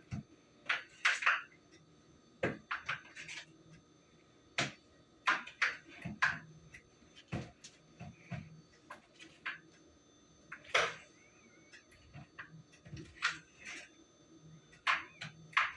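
Kitchen utensil knocking and scraping against a mixing bowl as cake batter is mixed: irregular clicks and clinks, a few every second.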